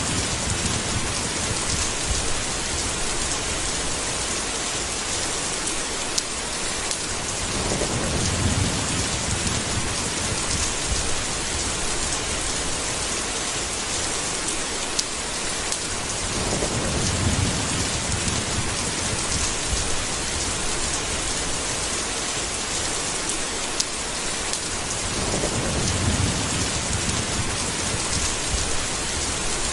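Steady heavy rain with three low rolls of thunder, about nine seconds apart, each swelling and fading over a second or two.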